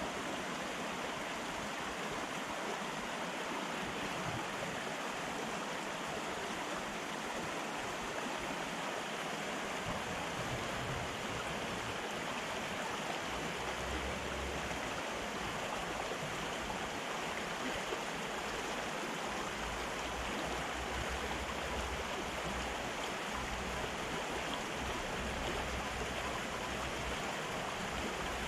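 Fast-flowing river water rushing steadily over its bed, swollen in the rainy season. A low rumble comes and goes in the second half.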